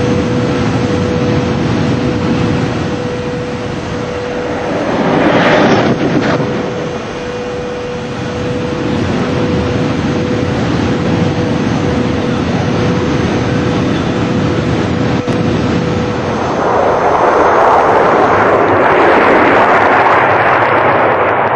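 High-speed electric train running at speed: a steady rushing noise with a faint, steady tone through it, swelling briefly about five seconds in. About three-quarters of the way through it gives way to a louder, broader rush as the train passes by.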